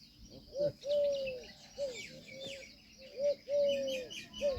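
Peafowl calling: a series of about seven short calls that rise and fall in pitch, two of them longer and drawn out. Small birds chirp faintly and high above them.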